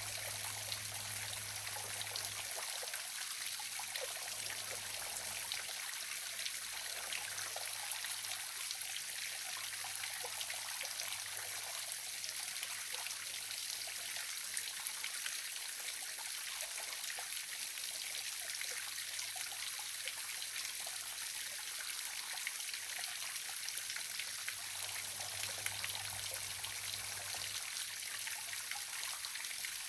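Waterfall splashing steadily: an even, bright rush of falling water with trickling.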